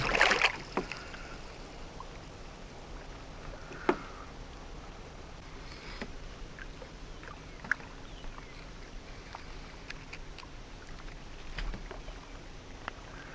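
Quiet water and air around a small boat, broken by scattered small clicks and knocks of gear being handled, with the sharpest knocks about four seconds in and just before eight seconds.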